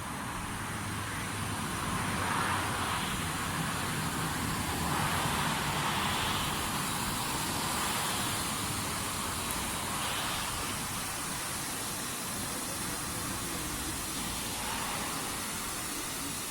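Leisuwash 360 touchless car wash machine running, with a steady rushing hiss of its water spray. The hiss swells and fades about four times.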